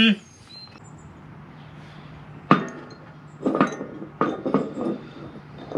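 Metal clanking and knocking, tools against the steel spindle hardware of a riding-mower cutter deck: one sharp ringing knock about two and a half seconds in, then two short runs of clinks and knocks.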